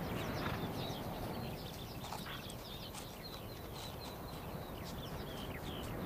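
Small birds chirping, many short high calls in quick succession, over a low steady background noise.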